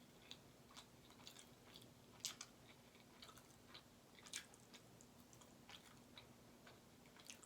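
A person chewing food close to the microphone, quiet, with scattered soft wet mouth clicks; the sharpest come a little over two seconds in and about four and a half seconds in.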